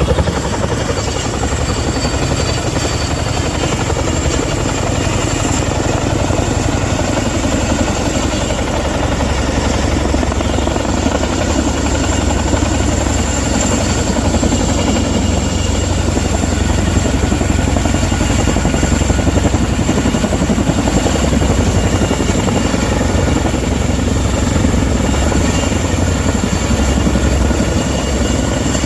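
Helicopter running close by: rapid, steady rotor beating under a thin, high turbine whine.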